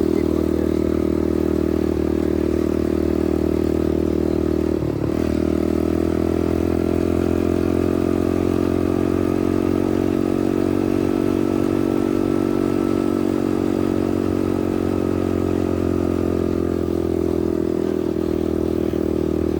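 Dirt bike engine running steadily while the bike is ridden, with a brief break in the engine note about five seconds in, then the pitch slowly sinking.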